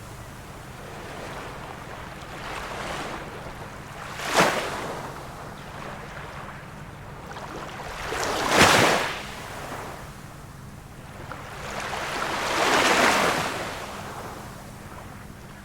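Small waves of a calm sea washing onto the shore, one every four seconds or so. The sharpest and loudest break comes about 8 to 9 seconds in, another sharp one about 4 seconds in, and a slower, softer swell near the end.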